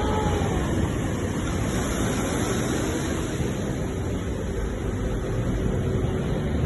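Ocean waves and surf washing steadily.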